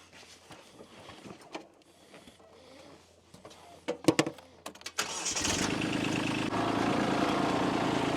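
A few clicks and knocks, then about five seconds in a motor starts up suddenly and runs on steadily at an even pitch.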